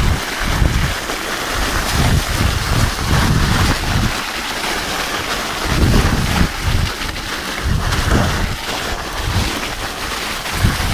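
Wind buffeting the microphone in uneven gusts over the rolling noise of a mountain bike's studded tyres on an icy trail.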